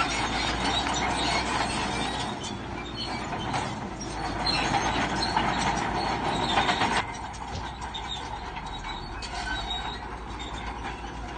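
Bulldozer's steel crawler tracks clanking and squealing over the running engine, dropping in level about seven seconds in.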